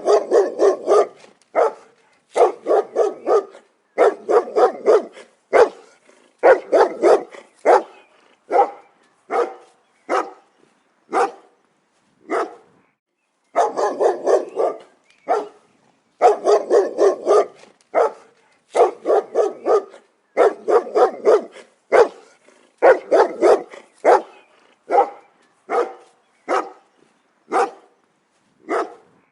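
A dog barking repeatedly in quick bursts of several sharp barks, with short pauses between bursts.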